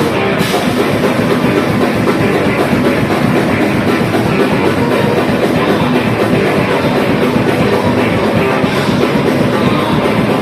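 Live heavy metal band playing loud: distorted electric guitars and a drum kit in a dense, continuous wall of sound.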